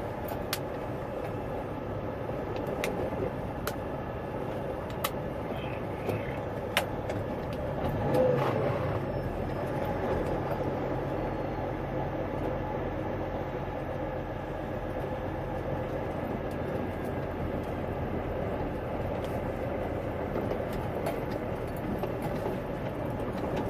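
Semi truck's diesel engine running steadily while the truck is driven slowly, with a few scattered clicks and a brief swell in level about eight seconds in.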